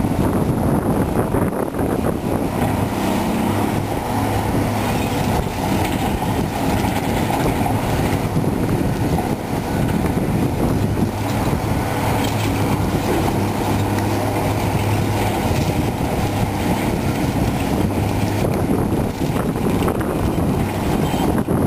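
Cat 345B hydraulic excavator's diesel engine running steadily, working through a loading cycle, its low engine note strengthening and easing at intervals.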